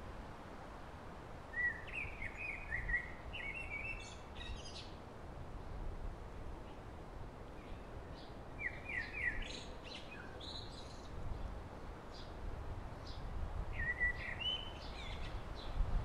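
A songbird singing three short phrases several seconds apart, each a quick run of high chirping notes, over a steady low background rumble.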